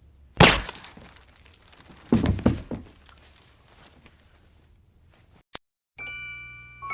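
Something being smashed: a loud crash about half a second in, then a second burst of crashing and breaking about two seconds later, with faint crackling as debris settles. Chime-like mallet music starts near the end.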